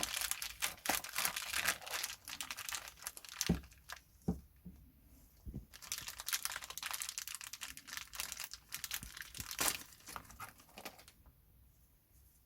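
Crinkling, rustling handling noise, like plastic or paper being crumpled, with a few separate knocks in the middle; it stops about eleven seconds in.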